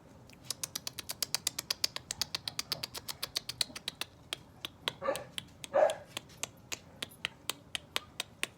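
A fast, even run of sharp clicks, about six a second, with two short yips from a pit bull puppy about five and six seconds in.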